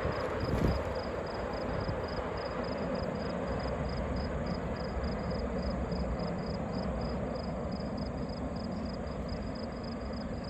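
BNSF freight train cars rolling past on the rails, a steady rumble with one brief knock just under a second in.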